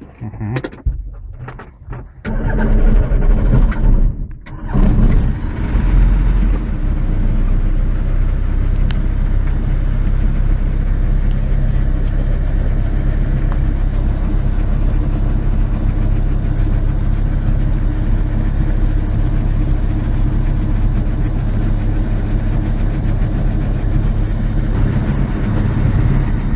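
Light aircraft's engine being started: it catches unevenly about two seconds in, then settles within a few seconds into a steady idle, heard from inside the cockpit.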